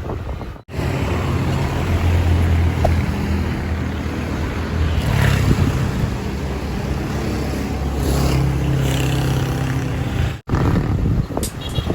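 Wind rushing over the microphone of a moving bicycle, with the low hum of a motor vehicle engine nearby a few times. The sound drops out abruptly twice.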